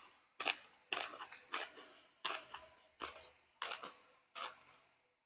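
Mouth-close crunching of crispy deep-fried tilapia belly being chewed, a crackly crunch about every two-thirds of a second, slowing near the end.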